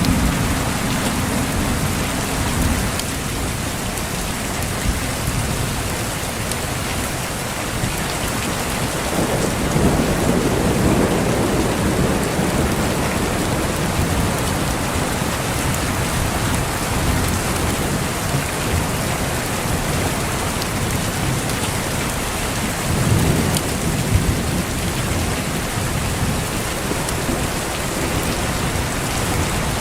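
Steady heavy rain falling, with low rolls of thunder, one about a third of the way in and a shorter one about three quarters through.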